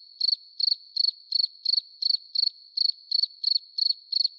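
Insect chirping, cricket-like: a high, thin trill pulsing about three times a second, steady throughout.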